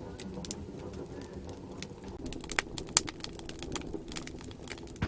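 Firewood crackling in a wood stove: irregular sharp pops and snaps, the loudest about three seconds in, over a low steady rumble.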